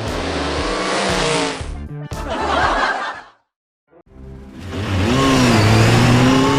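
Car engine sound effect, revving with gliding pitch. It cuts out for about half a second a little past the middle, then starts again and revs up.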